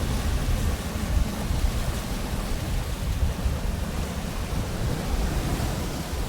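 Pacific Ocean surf washing in, a steady rushing wash with a deep rumble underneath.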